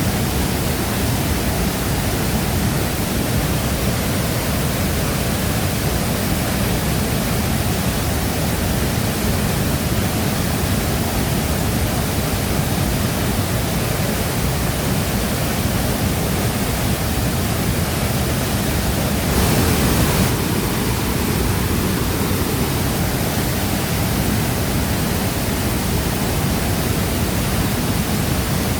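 Shifen Waterfall's falling water: a steady, dense rushing, with a brief louder swell about two-thirds of the way through.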